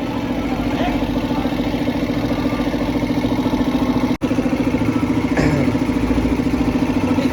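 An engine running steadily at idle, a pulsing hum that carries on unchanged through a brief break about four seconds in.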